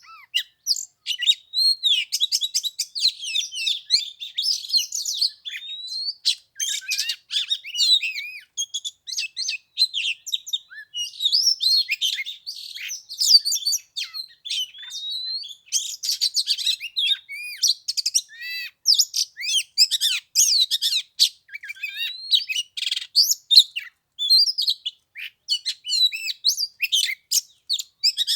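Oriental magpie-robin singing a continuous, rapid song of varied whistles, trills and chirps, with no gaps longer than a moment. This is the territorial song used as a lure to provoke a wild magpie-robin into coming down to fight.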